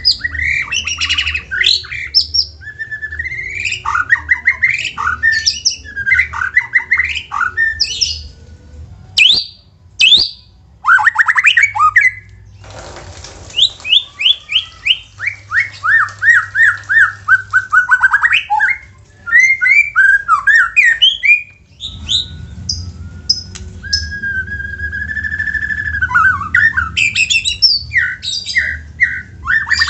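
White-rumped shama (murai batu) singing a loud, varied song of fast chattering phrases, whistled sweeps and a run of notes stepping down in pitch, broken by a few short pauses.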